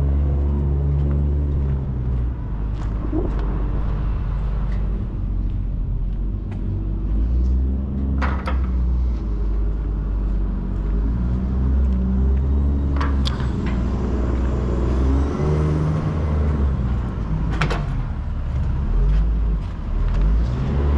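Heavy diesel engine running, its revs rising and falling, with four sharp metal clanks spaced several seconds apart as container twist locks are worked by hand.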